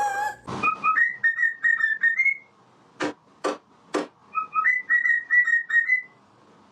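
Pet parrot whistling two phrases of quick, repeated notes, each ending on a rising note. Three sharp clicks about half a second apart fall between the phrases.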